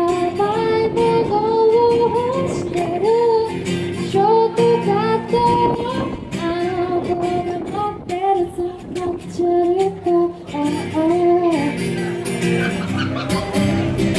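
A woman singing a melody live to acoustic guitar accompaniment.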